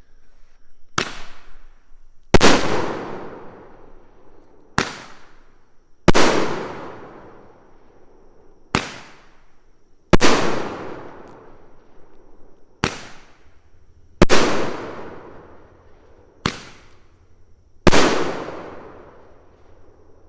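Salute firework explosions: about ten sharp bangs, in five pairs roughly four seconds apart, each pair a short crack followed a second and a half later by a louder bang with a long fading echo.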